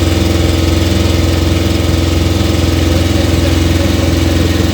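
Motorboat engine running steadily at cruising speed, a loud, even drone close to the microphone.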